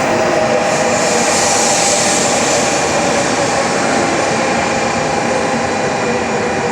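Train running at a station platform: a loud, steady rush with a few held whining tones, and a hiss that swells and fades near the start.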